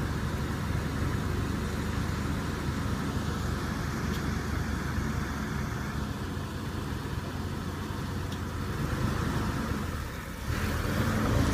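Jeep Wrangler's engine running as it rolls slowly at low speed, steady, then growing louder near the end as it comes close.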